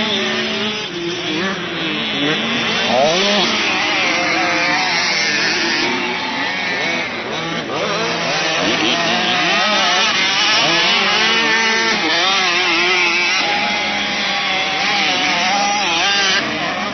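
Several motocross bike engines revving on the track, their pitches rising and falling over one another as the bikes accelerate and shift.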